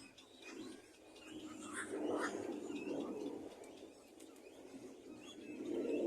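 Birds chirping in short, scattered high calls, over a low background noise that swells about two seconds in.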